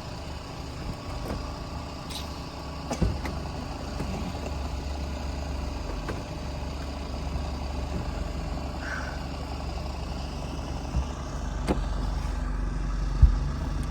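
A motor vehicle running, a steady low rumble with a few knocks and clicks, the loudest near the end.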